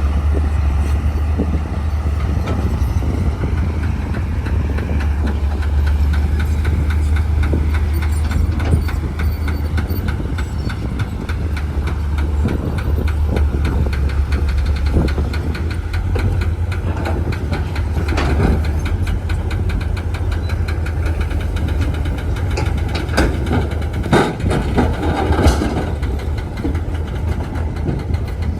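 Bulldozer's diesel engine running steadily, with a deep, rapid pulsing throb. A few sharper clanks or knocks come through in the second half.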